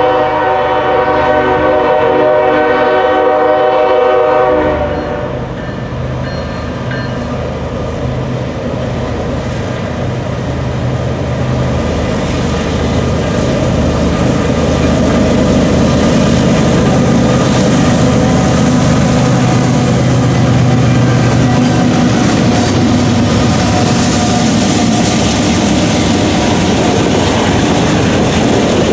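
Kansas City Southern freight train passing: one long air horn blast that stops about four and a half seconds in, then the diesel locomotives rumbling by and the railcars following with wheels clicking over the rail joints.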